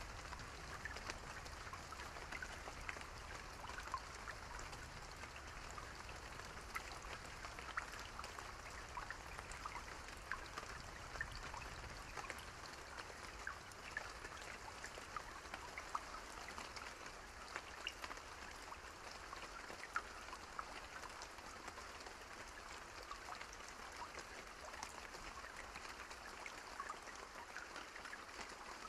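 Steady rain with many individual drops pattering close by.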